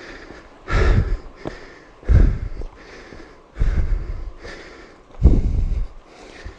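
A man breathing hard from exertion, four heavy breaths about a second and a half apart.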